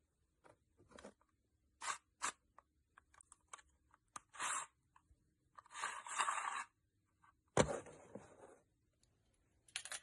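Faint, irregular handling noises: a string of short scrapes and rustles, a longer rustle around the middle, and a sharp knock with a rustle after it about three-quarters of the way through.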